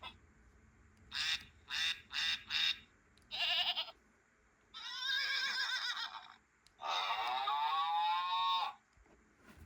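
Recorded farm-animal calls played one after another. There are four short calls about a second in and another near three and a half seconds, then a wavering bleat-like call, then a long call that ends about nine seconds in.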